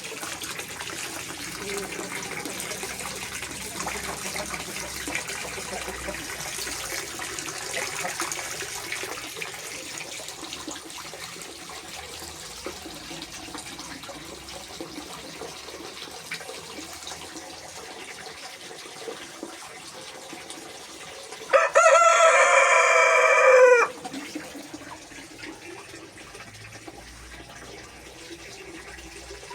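A rooster crows once, loud and about two and a half seconds long, dropping in pitch at the end, over a steady low hiss in the background.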